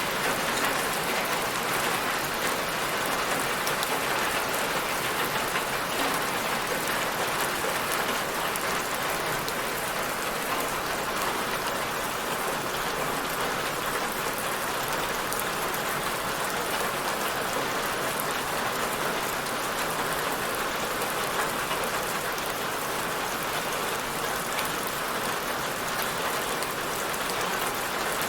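Steady rain falling on a surface: a continuous even hiss with the patter of many drops.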